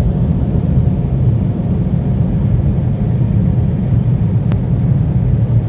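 Automatic car wash machinery running, heard from inside the car's cabin: a steady low rumble, with one brief click about four and a half seconds in.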